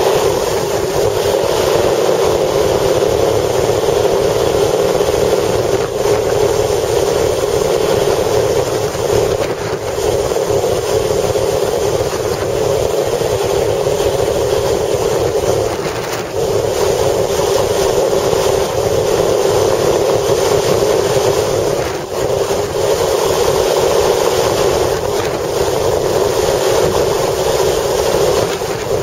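Strong wind with a steady vehicle running noise, a continuous loud rush that dips briefly a few times.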